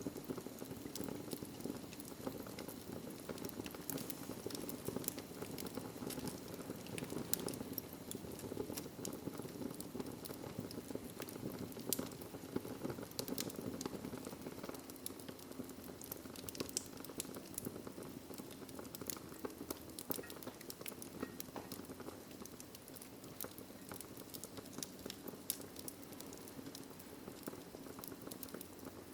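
Wood fire in a fireplace crackling, with frequent irregular pops and snaps over a steady low hiss of the burning logs.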